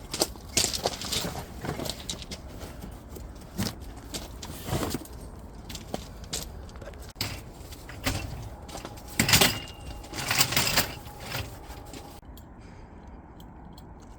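Camping gear being handled: irregular clinks and knocks mixed with longer rustling, scraping bursts, loudest about two-thirds of the way in.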